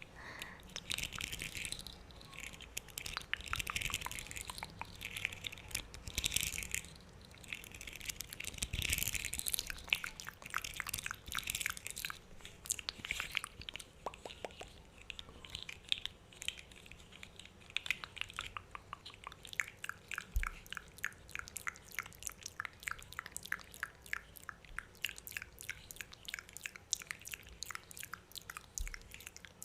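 Loud wet mouth sounds: a long run of short, wet clicks and smacks of lips and tongue, coming closer together in the second half.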